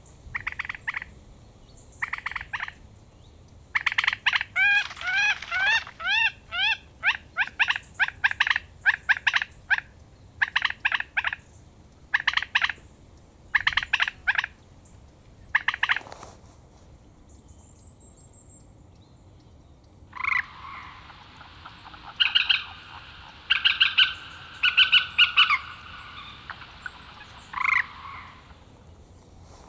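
Birds calling in bouts of short, quickly repeated notes, with a run of rapid hooked trills near the start, a pause in the middle, and a busier chattering stretch in the last third.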